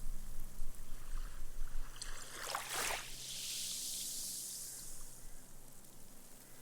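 Small, gentle wave washing up on a sandy beach. It splashes briefly about two and a half seconds in, then its foam fizzes as the water soaks into the sand, fading away.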